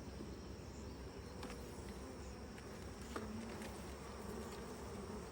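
Honey bees buzzing steadily around an opened hive, with a couple of faint clicks.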